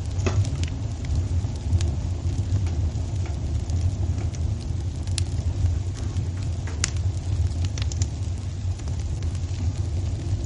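Wood fire burning in a fireplace: a steady low rumble with scattered sharp crackles and pops, a dozen or so in ten seconds.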